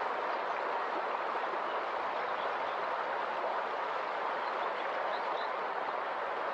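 A river flowing fast, with a steady, even rush of water. A few faint high chirps sound over it in the second half.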